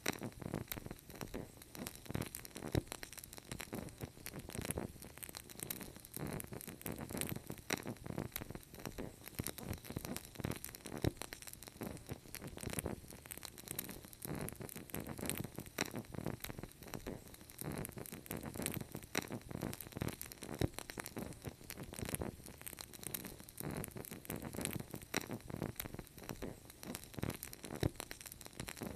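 Wood fire crackling: dense, irregular pops and snaps over a low steady hiss, with a few louder snaps.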